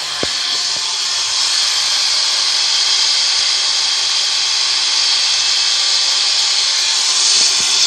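Handheld electric power tool running steadily at a constant speed, a loud even high-pitched whir.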